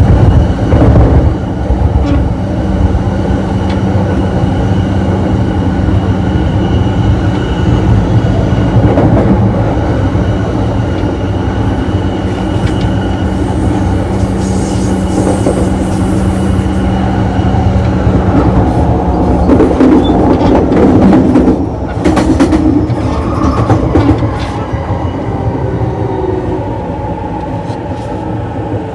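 E233 series electric train heard from inside the gangway between two cars while running: a loud rumble of wheels on rail with a steady hum that fades about two-thirds of the way through. A cluster of sharp clacks follows as the wheels pass over rail joints or points, and the running noise gets somewhat quieter near the end.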